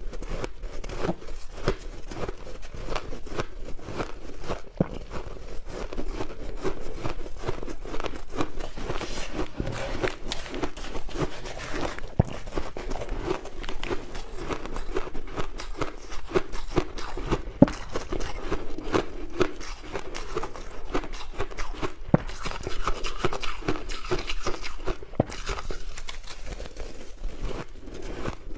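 Mouth biting and chewing crushed ice: dense, continuous crunching and crackling with no break.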